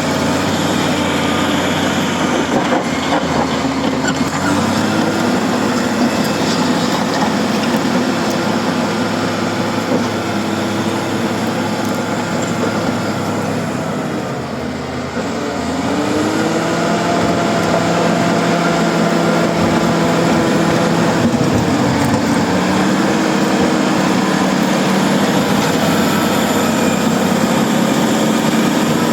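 Crawler bulldozer's diesel engine running under working load, its pitch shifting up and down as it works, with a brief dip about halfway through before it revs back up.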